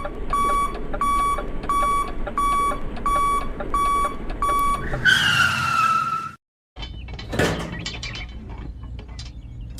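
A run of about eight evenly spaced electronic beeps, roughly one and a half a second, then a falling whistle tone lasting about a second. After a brief cut comes a sudden whoosh and impact, followed by scattered clattering.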